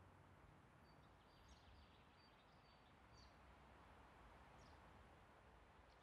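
Near silence: faint outdoor ambience hiss with a few faint, high bird chirps.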